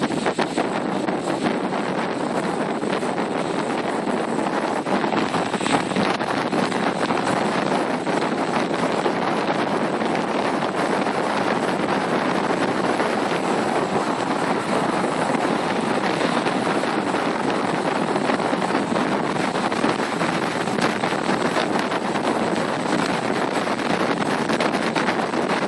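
Strong wind of around 50 mph blowing, a loud, steady rush of noise with no breaks.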